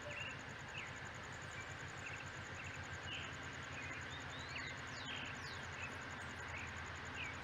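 Quiet outdoor ambience with a steady low background hum and a faint high insect-like whine. Short bird chirps are scattered throughout.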